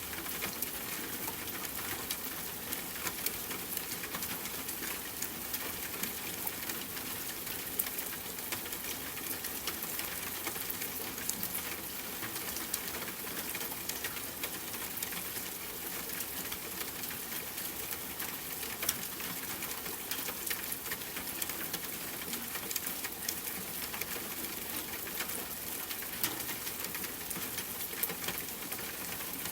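Steady rain pattering on tent fabric, mixed with a campfire crackling, heard as many small sharp pops and ticks over an even hiss.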